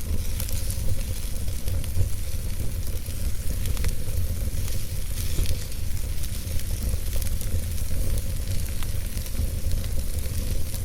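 Campfire burning: a steady hiss with scattered small crackles and pops over a constant low rumble.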